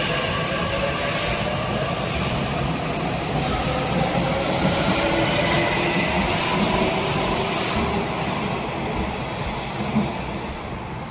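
Nishitetsu electric commuter train pulling out of the station: the traction motors whine and slowly rise in pitch as it accelerates, over a steady rumble of wheels on rail.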